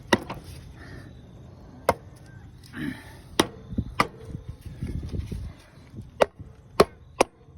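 About seven sharp wooden knocks at irregular spacing, with light handling noise between them: a new front-wheel bushing being tapped into a lawn tractor's front wheel with a piece of wood.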